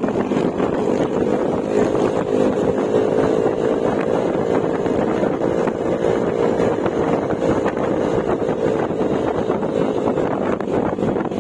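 Yamaha Mio Gravis scooter's 125cc single-cylinder engine running at a steady cruising speed through an aftermarket Akrapovic exhaust fitted with a silencer insert, with wind rushing over the microphone. The engine note lifts a little about two seconds in and eases slightly near the end.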